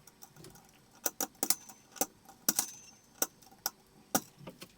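Plastic ceiling fan blade-mount parts being handled: an uneven series of about ten sharp clicks and clacks, a couple with a brief high ring.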